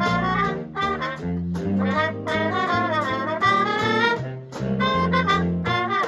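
Jazz ensemble with trumpets, trombones and saxophones playing a brisk swing passage in short, separate notes, with a bass line moving underneath.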